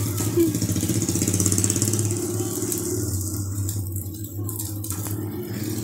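An engine running steadily with a fast, even low pulsing, easing off slightly near the end.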